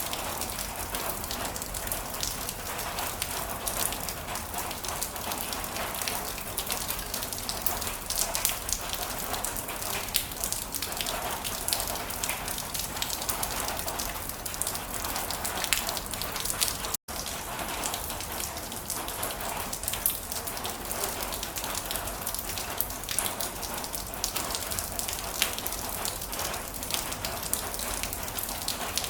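Heavy rain falling steadily, a dense hiss with many individual drops pattering on a surface. A split-second dropout to silence falls a little past halfway.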